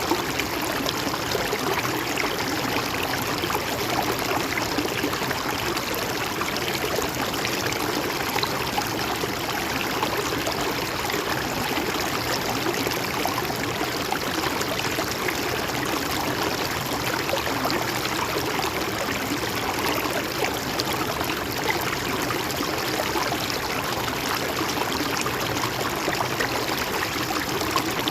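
Shallow river or stream flowing steadily over rocks, a continuous rushing and gurgling of water.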